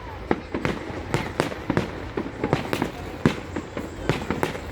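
Fireworks going off: a rapid, irregular run of sharp bangs and cracks, several a second, the loudest one a little past three seconds in.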